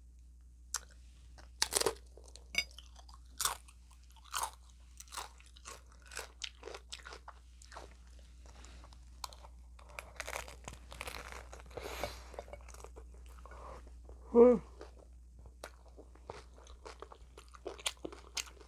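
Biting and chewing crunchy hard taco shells filled with chicken: several sharp crunches in the first few seconds, then steadier chewing. A short hummed vocal sound comes about three-quarters of the way through.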